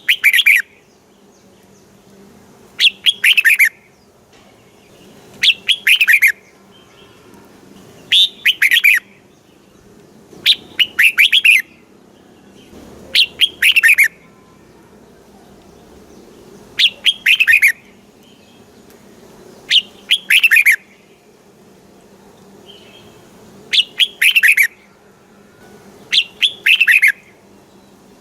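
Red-whiskered bulbul singing: short, bright phrases of a few quick falling whistled notes, repeated every two to three seconds.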